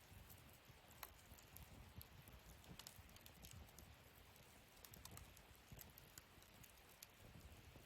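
Wood fire burning in a fire pit stand, faint: a low rumble of flames with scattered sharp crackles and small pops, a few seconds apart.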